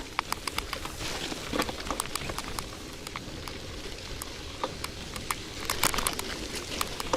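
Old KhVZ bicycle riding over a wet, sandy dirt track: steady tyre noise with many irregular small clicks and crackles, heavier about a second and a half in and again near the end.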